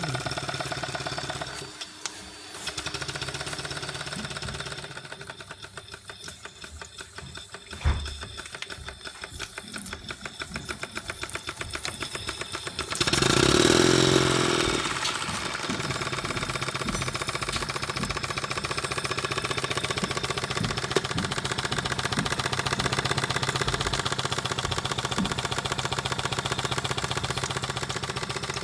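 1-inch-scale Maxitrak Burrell live-steam traction engine running on steam under boiler test, with a fast, even beat of exhaust chuffs. About halfway through, a loud hiss lasts roughly two seconds, then the running beat carries on.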